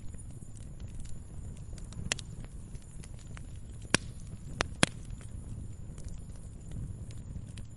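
Wood fire crackling in a fireplace: a steady low rumble of burning with scattered small ticks and a few sharper pops, the loudest around the middle.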